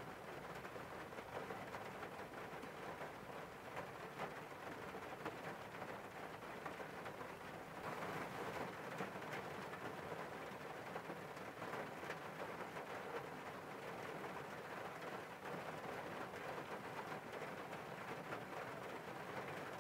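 Steady rain falling on a car window: a dense, even patter of drops that grows a little heavier about eight seconds in.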